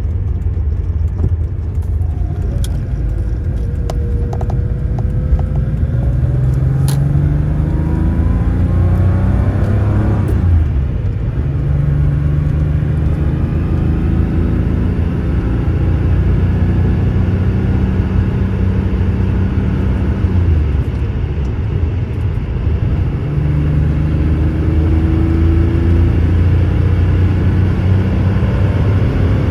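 1984 Porsche 911 Carrera's air-cooled 3.2-litre flat-six pulling the car at road speed, heard from inside the cabin over steady road rumble. The engine note climbs, breaks off about ten seconds in and again about twenty seconds in, and climbs again near the end.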